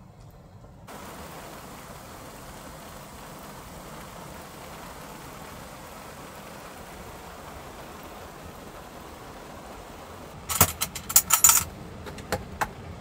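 Steady hiss of rain that begins abruptly about a second in. Near the end comes a quick burst of metallic clinking and clattering of small hard objects, then two single clicks.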